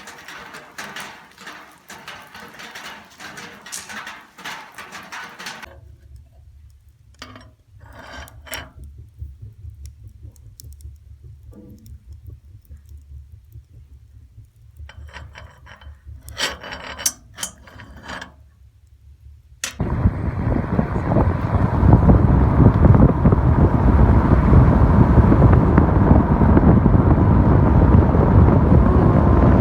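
Irregular clicking and rattling, dense at first and then sparse over a low hum. About two-thirds of the way through, a loud, steady rush of wind on the microphone takes over.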